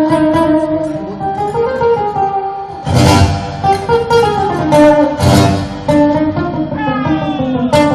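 Live band music in an instrumental passage without singing: guitar playing over sustained notes, with two loud strummed chords about three and five seconds in.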